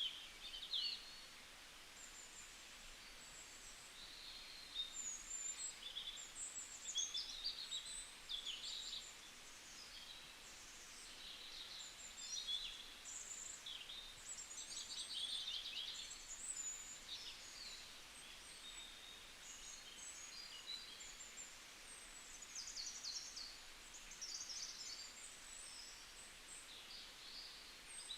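Faint birdsong outdoors: many small birds chirping and trilling in short, high-pitched calls, over a low background hiss.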